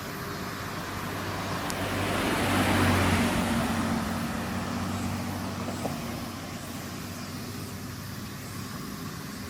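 A car driving past: its engine hum and road noise swell to a peak about three seconds in, then fade away.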